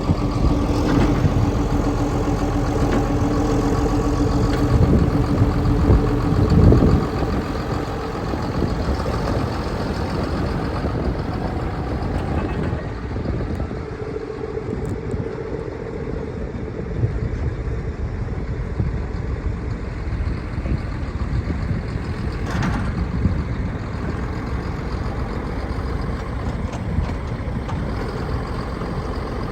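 John Deere 7720 tractor's six-cylinder diesel engine running. It is louder with a stronger steady note for the first several seconds, drops back about seven seconds in, and then idles steadily.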